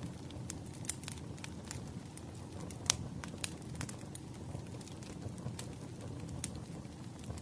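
Wood fire crackling: irregular sharp pops and snaps over a low steady rumble, with one louder pop about three seconds in.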